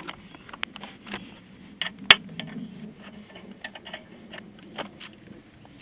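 Scattered, irregular clicks and light knocks of hand tools, bolts and plastic parts being handled on a motorcycle, with one sharper click about two seconds in.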